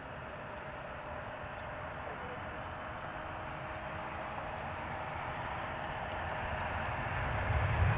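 Jet airliner engines, a steady noise with a faint held tone, growing gradually louder as the aircraft approaches. A low rumble builds near the end.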